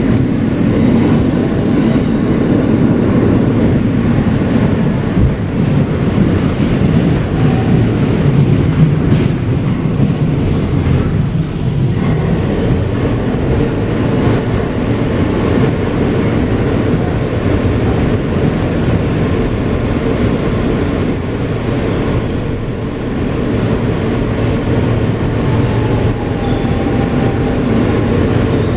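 Kawasaki R160B subway car with Siemens propulsion running along the track, heard from aboard: a steady, loud rumble of wheels on rail and running gear, with a faint high wheel squeal in the first couple of seconds.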